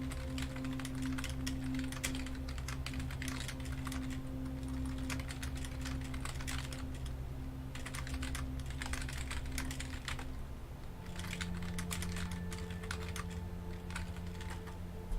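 Typing on a computer keyboard: quick, irregular key clicks with a couple of short pauses, over a steady low background drone.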